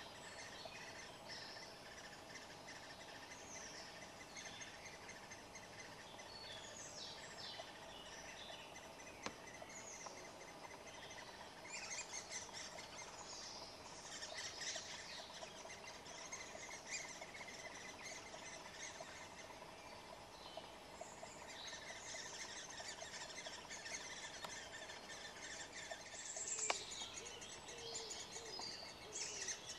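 Birds chirping and calling in many short, high, overlapping notes, busier in the second half, with one sharp click near the end.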